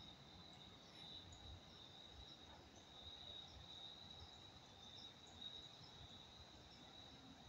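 Faint, steady high-pitched trill of night insects such as crickets, unbroken throughout.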